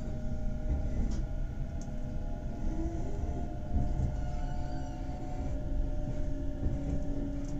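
Nankai Rapi:t β limited express train (50000 series electric multiple unit) heard from inside the cabin as it pulls out of the station: a steady low running rumble with a motor hum, one tone edging up in pitch about three seconds in as it gathers speed.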